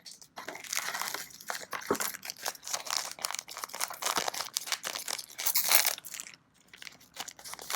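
Crinkling and tearing of plastic wrapping on trading card packaging being opened by hand, a dense run of crackles that dies down near the end.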